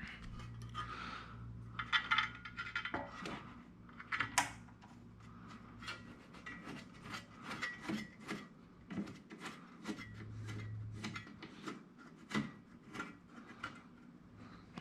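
Small parts of a vinyl-cutting plotter being handled and fitted during hand assembly: light clicks, taps and rubbing of metal and plastic, with a quick run of small clicks through the second half.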